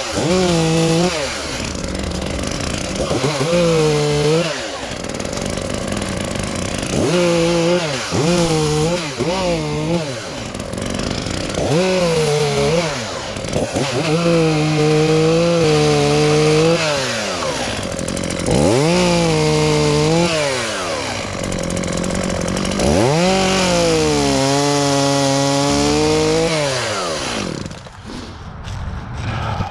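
Chainsaw bucking a downed, sap-heavy tree into logs. The engine revs up to cutting speed and drops back to idle between cuts about eight times, then falls away near the end.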